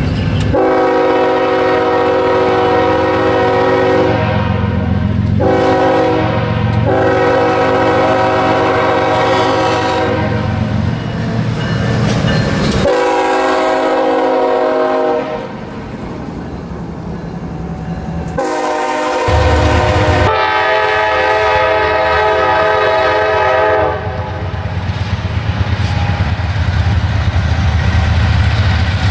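Diesel freight locomotive's air horn sounding a series of blasts, several long and a few short, with short breaks between them. Underneath is the low rumble of the locomotive and the passing train.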